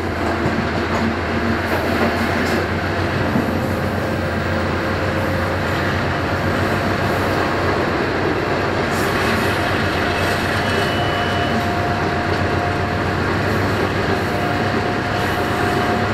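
Train running at speed, heard from its AGE 30 diesel-electric locomotive: a steady low drone under a continuous rumble of wheels on the rails.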